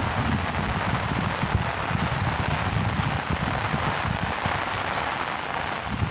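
Heavy rain falling steadily, with gusts of wind buffeting the microphone.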